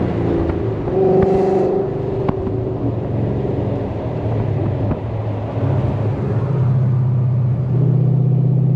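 Ford Mustang GT's 5.0 Coyote V8 engine running while the car is driven on the highway. The engine note gets louder and steadier in two steps over the last couple of seconds.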